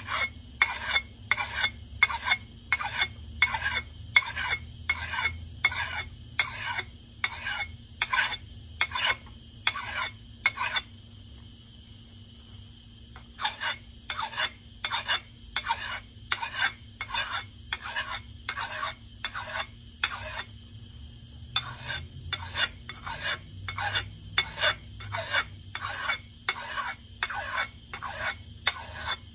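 Hand-sharpening strokes along the steel edge of an axe head: short, even rasping strokes, about two a second, in three runs with two brief pauses.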